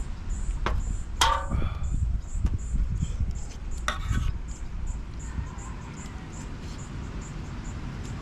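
Insects chirping in a steady high-pitched pulse, about two to three chirps a second. A couple of sharp clinks ring out about a second in and again about four seconds in.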